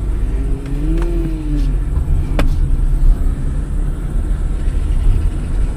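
Off-road vehicle's engine running with a steady low rumble, a brief rise and fall in pitch about a second in, and a few sharp clicks.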